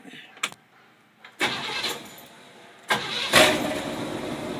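Unmuffled Chevrolet 350 small-block V8, running through headers and an X-pipe with no mufflers, being started: a first burst about a second and a half in fades away, then a second try catches with a quick rev and settles into a steady loud idle.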